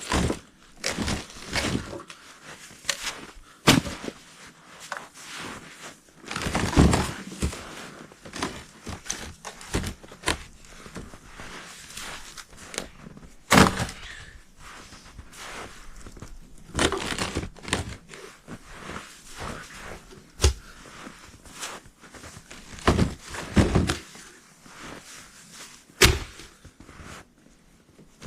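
Dead wood being handled for a bonfire: irregular knocks, cracks and crunching, with a few sharp snaps standing out.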